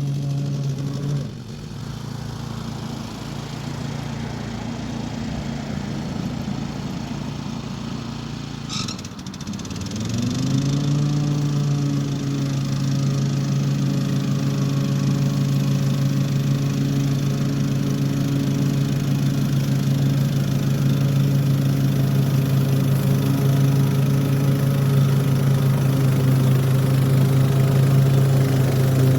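Toro HDX 30-inch self-propelled mower's engine running. It drops in level about a second in, then about ten seconds in climbs in pitch and settles into a steady, louder run. A short click comes just before the rise.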